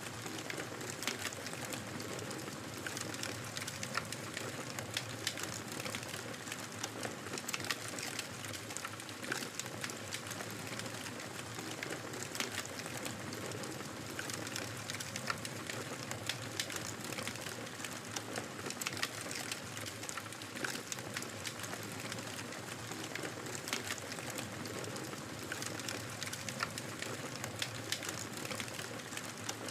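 Fireplace fire crackling, with frequent sharp pops and snaps over a steady hiss.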